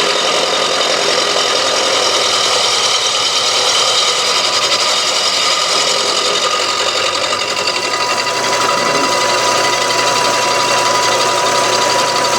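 Milling machine on power feed taking a cut in cast iron: a steady, harsh cutting chatter, with a thin whine joining about two-thirds of the way through. The cut is going hard, which the machinist puts down to a rough, worn cutter.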